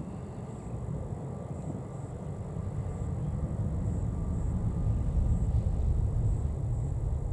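Low rumble of an Airbus A320neo's CFM LEAP-1A jet engines as the airliner approaches to land, slowly growing louder.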